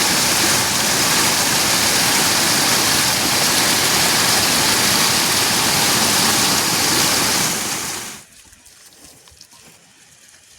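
Loud, steady rush of water, as of monsoon rain or a torrent, that cuts off abruptly about eight seconds in, leaving a quiet background with a few faint ticks.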